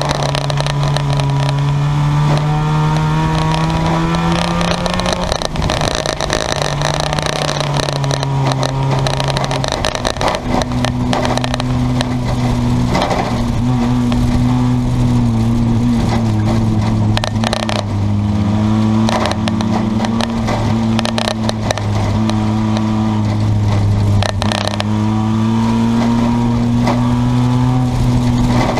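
Engines of junkyard cars running under racing load, a steady drone that holds its pitch and shifts down and up a few times, with scattered sharp clicks.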